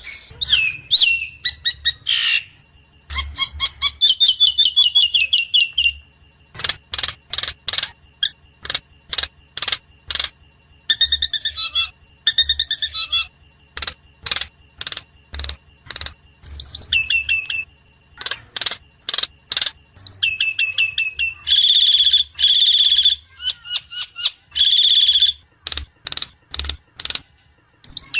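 Javan myna (jalak kebo) calling: a busy run of short sharp chips and clicks mixed with whistled notes. It is broken by a few longer harsh, rasping calls in the second half. A faint steady high tone runs underneath.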